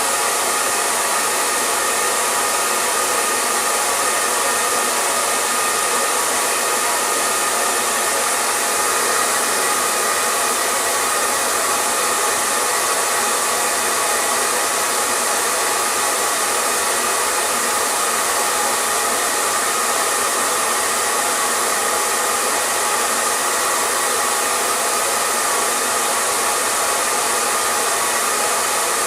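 Hair dryer blowing steadily, a constant rushing whir of the fan and air with a faint steady whine, no change in speed.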